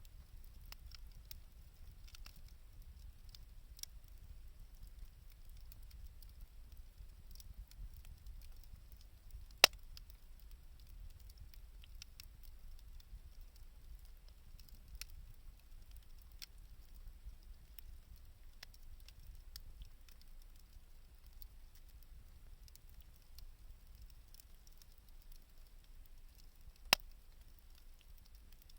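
Wood fire burning, with a low steady rumble and scattered faint crackles; two sharp pops stand out, one about ten seconds in and one near the end.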